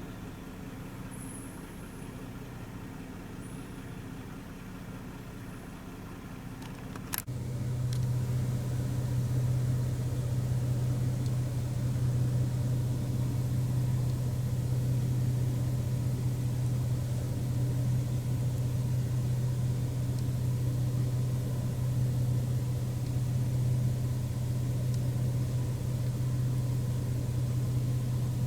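A car running, its steady low engine and road hum heard from inside. About seven seconds in there is a click, and the hum becomes louder and stays steady.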